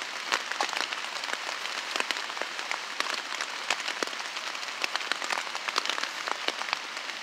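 Rain hitting a tarp stretched overhead: a steady hiss of rain with many sharp, irregular drop ticks.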